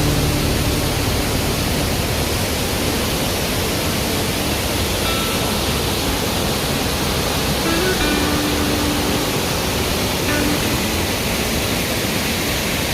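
Waterfall roaring: a steady, even rushing of falling water.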